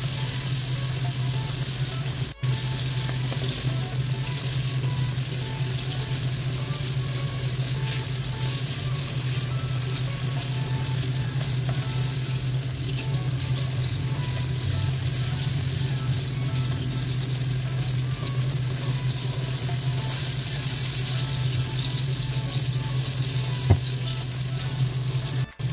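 Battered pork pieces deep-frying in oil in a wok over low heat: a steady sizzle with a low hum underneath, as chopsticks turn the pieces. A single sharp tap comes near the end, and the sound drops out briefly twice.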